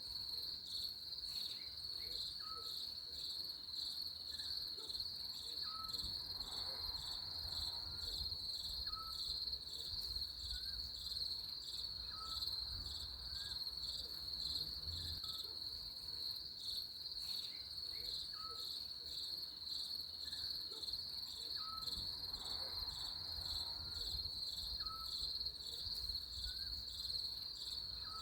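Continuous, steady high-pitched insect chorus, a fast pulsing trill, with faint short rising chirps lower in pitch about once a second.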